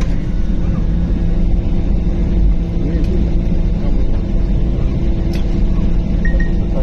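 Steady low rumble of an airliner cabin on the ground after landing, the engines running with a constant hum as the plane taxis.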